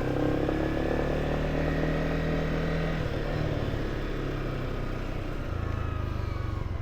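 Motorcycle engine running steadily while being ridden, its note shifting slightly about halfway through.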